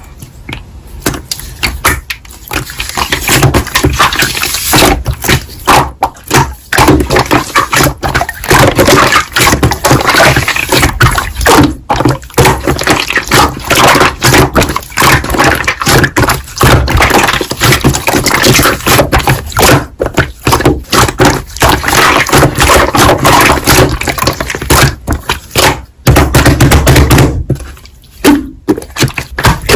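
Slime being squeezed and poked by hand, a dense, continuous run of sticky clicks and crackles.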